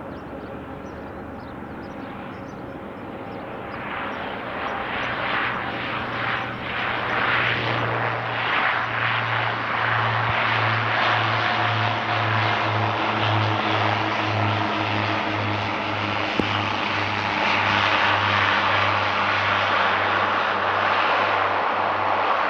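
Airplane engines growing louder over the first ten seconds, then a steady loud roar with a low drone that pulses about twice a second.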